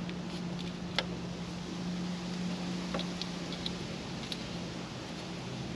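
A few light clicks and taps of a test probe against connector pins, about a second in, near three seconds and once more after four seconds, over a steady low hum.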